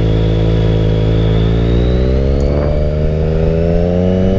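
Motorcycle engine pulling under acceleration: steady for the first second or so, then its pitch rises steadily as the revs climb.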